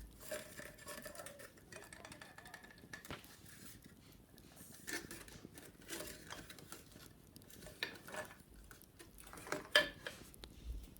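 Light taps, clicks and scratches of wicker baskets being handled and cleaned, with a few sharper knocks near the end.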